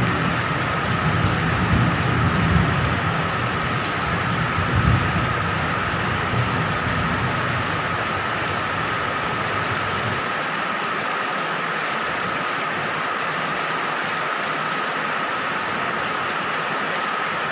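Steady heavy rain. A low rumble with a few swells runs under it and cuts off abruptly about ten seconds in.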